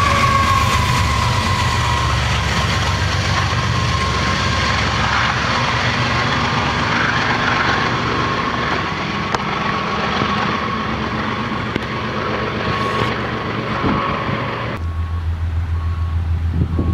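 BNSF freight trains hauled by GE diesel locomotives running through at speed: a steady low engine rumble with a high whine that dips a little in pitch at the start as a locomotive goes by. Near the end the sound switches abruptly to a steadier low hum.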